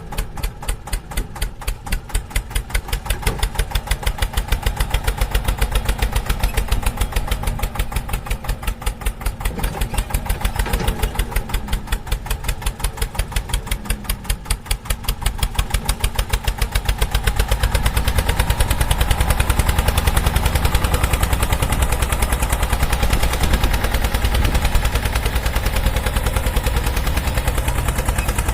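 A tractor engine running with a steady, rapid pulse of firing strokes. It becomes louder and heavier about seventeen seconds in.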